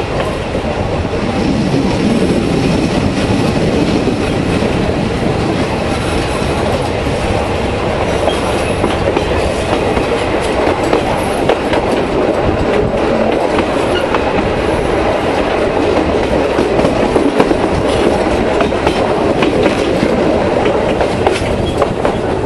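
Tourist train carriages running along the track, heard from an open carriage platform: a steady rumble and rattle of wheels on rail with frequent clacks.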